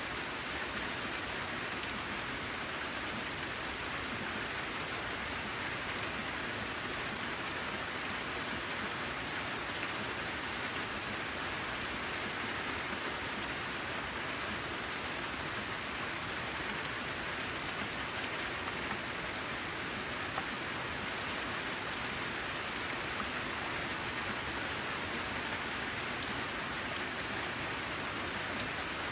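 Steady rain falling on a corrugated metal (zinc) roof, an even patter with a few separate drops ticking now and then.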